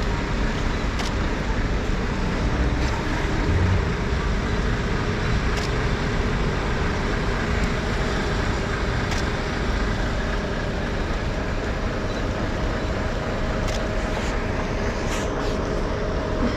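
Steady road traffic on a rain-wet city street, with vehicles running past and a faint steady engine hum. A dozen short, sharp clicks are scattered through.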